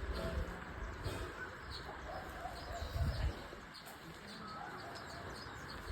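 Birds chirping faintly and sporadically in the background, with a few soft cooing notes, over a low rumble that swells briefly about three seconds in.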